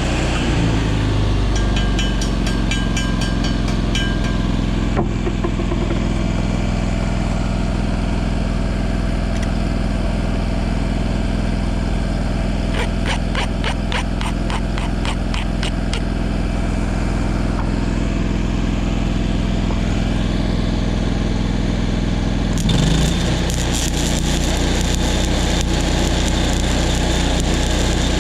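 Engine-driven welding machine running steadily, with two spells of rapid even ticking. About two-thirds of the way in, the engine note picks up and a dense crackling hiss starts, like a stick-welding arc being struck and the engine taking the load.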